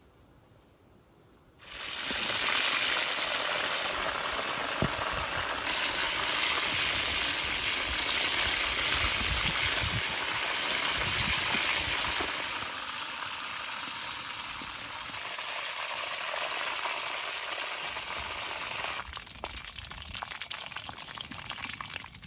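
Chicken pieces deep-frying in hot oil in a large wok over a wood fire: a loud, steady sizzling hiss that starts suddenly after a near-silent second or two. It eases a little about halfway through and drops further near the end.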